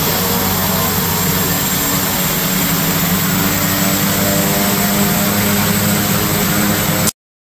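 Agricultural spray plane's engine running steadily, a constant drone that cuts off abruptly near the end.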